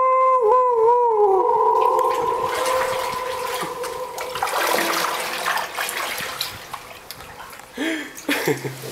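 A person's voice holding a long wavering 'ooh' note that rings on and slowly dies away in the tunnel's echo. Then water splashing and churning from the kayak paddling through the tunnel.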